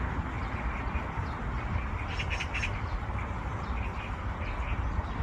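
Steady low background rumble, with a short burst of several quick bird calls about two seconds in.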